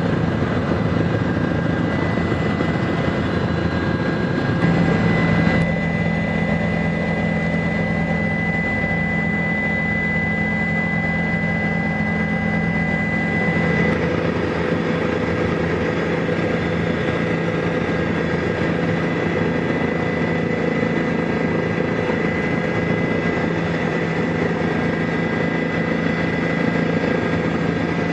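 Helicopter engine and rotor running steadily: a loud continuous drone with a thin, steady high tone above it. The mix of tones shifts twice, at about five seconds and again near the middle.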